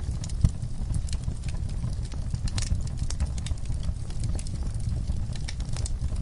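Wood fire crackling: irregular sharp pops and snaps over a steady low rumble of burning, with one louder pop about half a second in.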